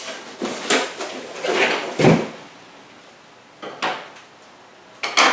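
Cardboard boxes and packing material being handled: a few scrapes and knocks. The loudest is a dull thump about two seconds in, with another sharp knock near the end.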